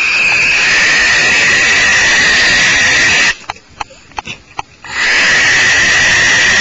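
Barn owls hissing: a loud, continuous rasping hiss that breaks off abruptly for about a second and a half just past the middle, a few faint clicks in the gap, then starts again.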